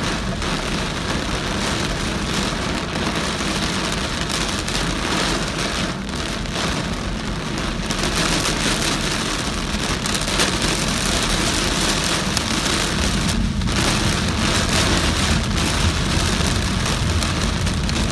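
Heavy rain falling on a moving car, a dense, steady hiss, with low road and tyre rumble that grows a little louder about halfway through.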